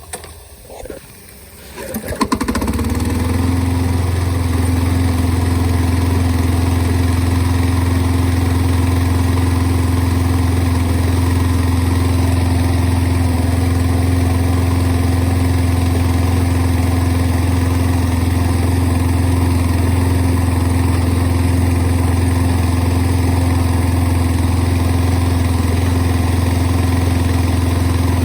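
Toro lawn mower engine starting about two seconds in, then running steadily, loud and unchanging, to flush the underside of the deck through its wash port with water from a hose.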